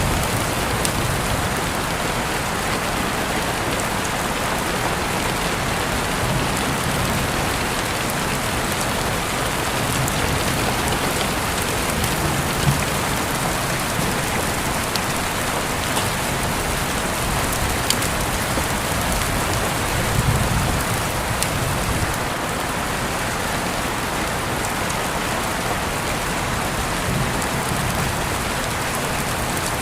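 Steady rain falling on a surface, an even hiss, with a few sharper drop ticks.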